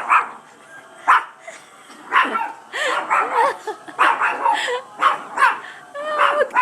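Small dog barking over and over in an aggressive fit, about a dozen short barks, some rising and falling in pitch.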